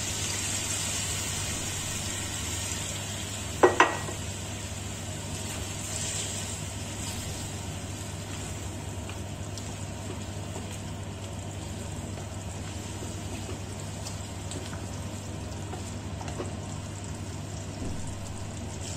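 Chicken curry sizzling and bubbling in a stainless steel kadai just after hot water has been poured in, with a wooden spatula stirring it. Two quick, sharp knocks come close together about four seconds in.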